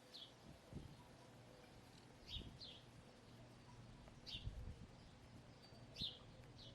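Wild songbirds chirping faintly: about six short, high notes, each sliding quickly downward, with a few soft low thumps in between.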